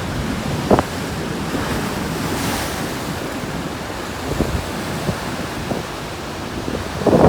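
Storm surf churning against a rocky shore, a steady wash of water with wind buffeting the microphone and a few sharp splashes; near the end a bigger wave starts to break, much louder.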